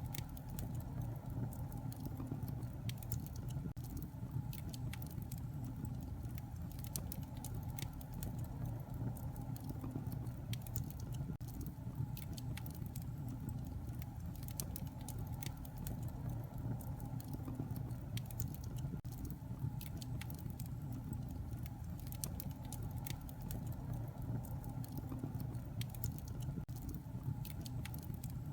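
Bonfire burning: a steady low rush of flame with frequent, irregular sharp crackles and pops.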